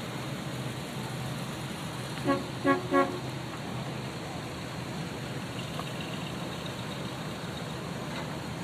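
Car horn tooted three times in quick succession, a little over two seconds in, over the steady low sound of a running car engine.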